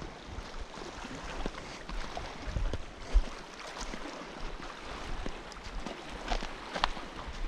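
Water washing and wind buffeting the microphone, with a few light clicks and knocks scattered through, the sharpest about three seconds in and two more near the end.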